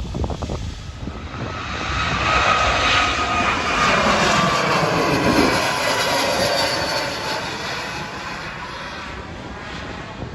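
Jet airliner passing close by, its engine noise swelling to a peak partway through and then fading, with the engine whine falling in pitch as it goes past.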